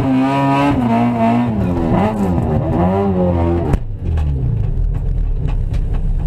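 Honda K20/K24 four-cylinder engine in a Civic, heard inside the cabin, held at high revs during a burnout with the revs wavering up and down. About four seconds in it drops suddenly to a low idle, followed by a few sharp ticks.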